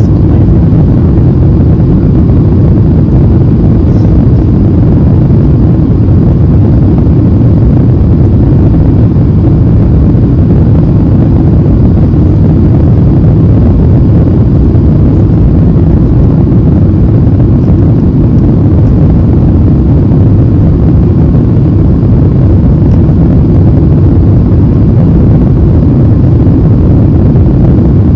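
Airliner cabin noise heard from a window seat: a loud, steady rumble of the jet engines and airflow over the fuselage.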